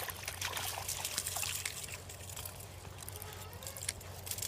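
Pond water splashing and trickling as a small bass is played and landed, with scattered light clicks and knocks.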